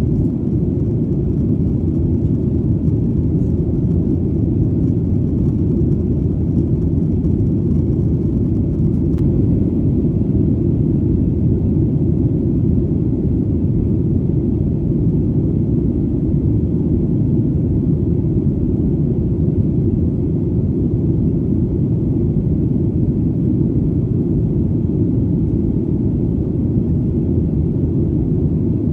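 Steady low rumble of an airplane in flight, an even drone with nothing standing out and no change in level.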